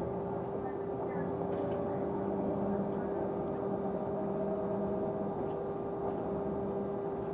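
A steady tone that holds one constant pitch, droning inside a London bus's cabin over its engine and road noise. This is the bus's weird noise, a whine that does not change with the bus's running.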